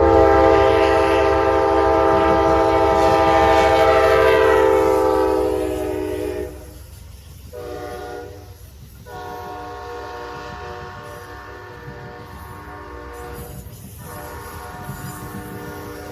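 Locomotive air horn sounding a long, loud blast whose pitch drops slightly, then after a short break continuing more quietly in further long blasts, over the low rumble of the passing train.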